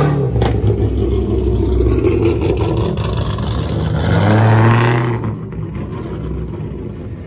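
A car engine revving: the first rev falls away at the start, and a second rev builds about four seconds in and cuts off suddenly about a second later, leaving a lower engine rumble.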